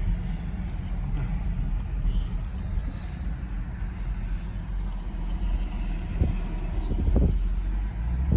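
2019 Camaro SS's stock exhaust and 6.2-litre V8 running at low speed, a steady low rumble, with a few short louder pulses near the end.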